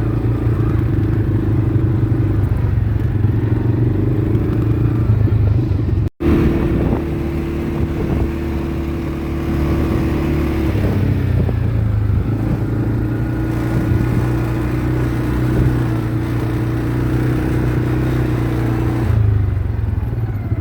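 ATV engine running steadily while riding. The sound drops out for an instant about six seconds in.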